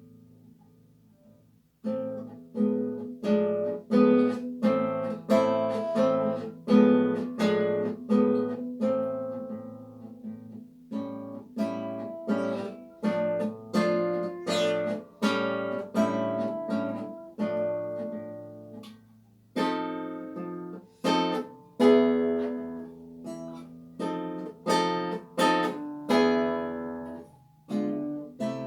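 Solo classical guitar playing a slow, lyrical piece: a plucked melody over repeating bass notes. It starts almost silent, the playing comes in about two seconds in, and there is a short break just past the middle.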